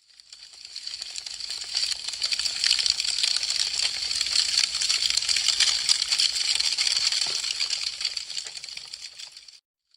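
Wood fire crackling: a dense, steady patter of small pops and snaps from burning branches. It swells in over the first couple of seconds and fades out just before the end.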